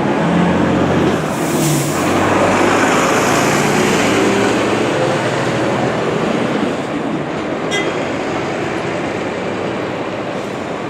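Diesel engine of a Scania coach with a Modasa Zeus 4 body running, together with road noise. The sound is loudest in the first half and eases off after about seven seconds.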